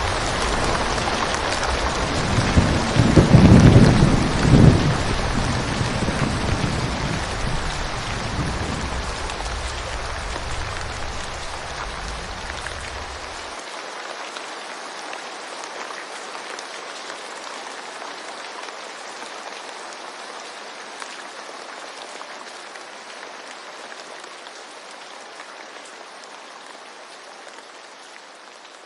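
Steady rain falling, with a rumble of distant thunder that swells about three to five seconds in. The low rumble cuts off abruptly about halfway through, and the rain then slowly fades away.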